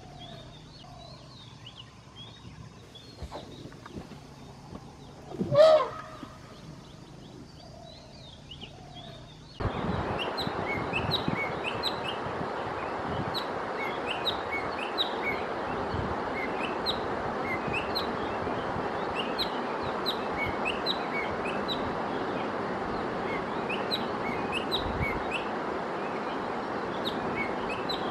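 Small birds chirping repeatedly, with one loud, short call about five and a half seconds in. About ten seconds in, a louder steady hiss comes in abruptly, and the chirping goes on over it.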